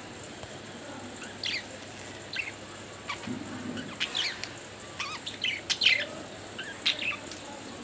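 Pet budgerigars chirping: a string of short, sharp chirps at irregular intervals, the loudest about six seconds in.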